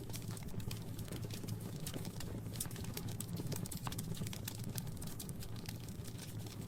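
Wood fire in a fireplace crackling, with frequent small sharp pops over a steady low rumble of the flames.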